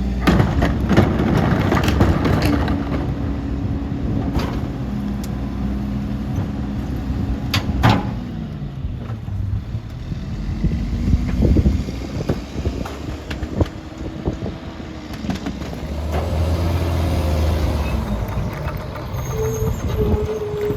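Mack MR rear-loader garbage truck running, with its engine pitch dropping and then climbing again partway through. Sharp knocks and clatter come near the start and again about eight seconds in.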